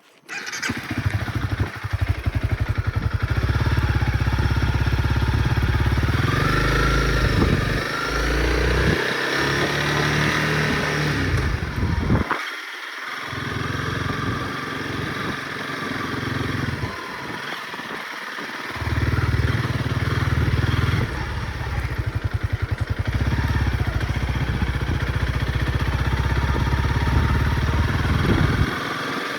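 Honda CRF dirt bike engine running under throttle, its revs rising and falling with brief drops in level as the throttle closes or gears change.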